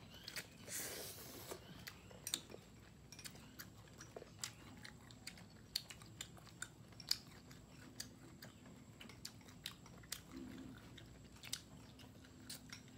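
Close-miked chewing of grilled beef rolls wrapped around bell pepper, carrot and enoki mushrooms: soft irregular crunches and clicks, with a denser run of chewing in the first second and a half.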